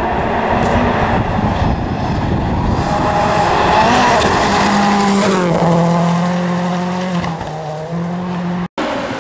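Rally car engine running hard on a stage, the note climbing and wavering about halfway through, then settling lower and steadier. The sound cuts out abruptly for an instant near the end.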